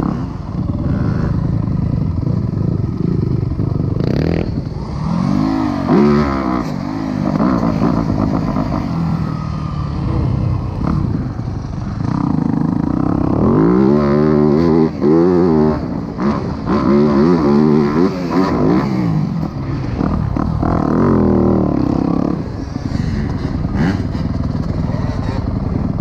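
Dirt bike engine running hard and revving up and down repeatedly as the rider works the throttle, with several rising and falling sweeps in pitch.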